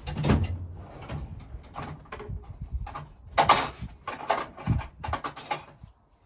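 Irregular knocks and clunks of metal, about ten in six seconds, from hammering and working on a tight gear and shaft inside an old engine's crankcase. The loudest blows come just after the start and about halfway through.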